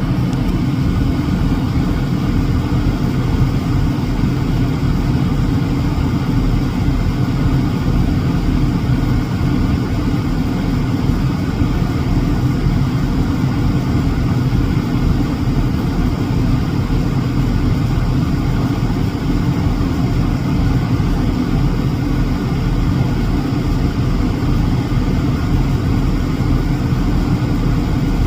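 A steady low rumble that does not change in level.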